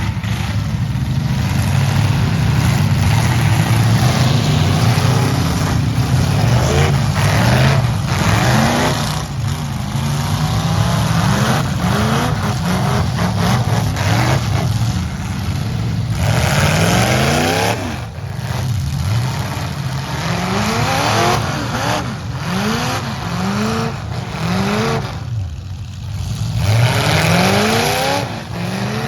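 Several demolition derby trucks' engines revving hard again and again, their pitches rising in short overlapping sweeps over a heavy low rumble.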